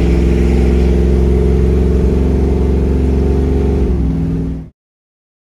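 1968 Camaro pro touring's 496 cubic-inch big-block V8 running steadily under way, heard from inside the cabin. The pitch dips slightly about four seconds in, and the sound then cuts off suddenly.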